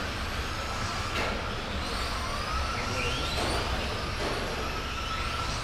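Radio-controlled racing trucks running laps, their motors whining and rising in pitch again and again as they accelerate out of corners, over a steady rush of track noise.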